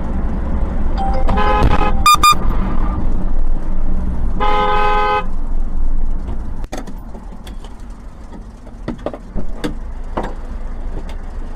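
Car horns honking over a steady low rumble of engine and road noise. There are two short honks in quick succession about a second in, then a longer blast about four and a half seconds in.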